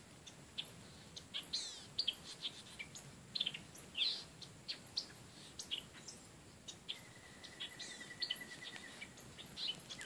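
Small wild birds calling: many short, sharp chirps and quick downward-slurred notes, with a rapid, even trill about seven seconds in that lasts about two seconds. The species are unidentified.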